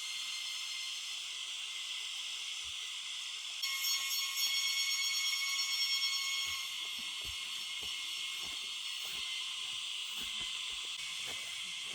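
Insects chirring steadily in a high, shrill chorus, which grows louder for a few seconds about a third of the way in. Faint scattered knocks underneath.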